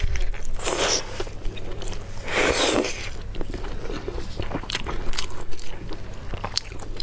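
Close-miked eating: a person biting, crunching and chewing food, with many small wet clicks and two louder crunching bursts, about a second in and again about two and a half seconds in.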